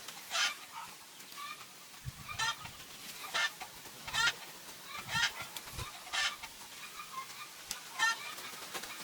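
Chickens clucking, with short calls repeating about once a second.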